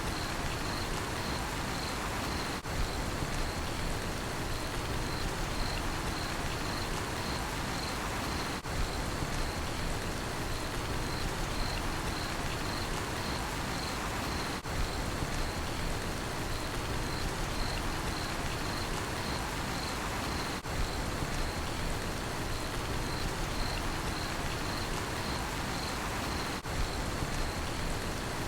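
Steady rain falling, with a cricket chirping on a high note about twice a second.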